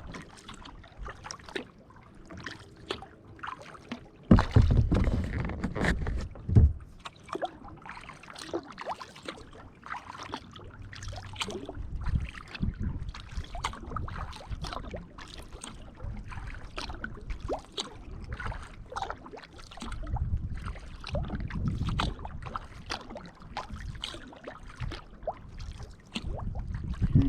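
Kayak paddle strokes: the blade dipping and pulling through calm water with splashes and drips, stroke after stroke. A few louder low rumbles come about four to seven seconds in and again around twenty seconds.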